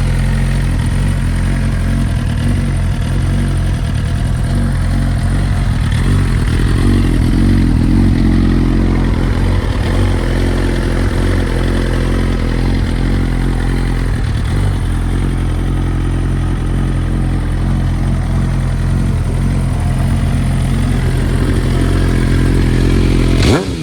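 2009 Suzuki GSX-R1000's inline-four engine idling steadily, with a quick rev starting right at the end.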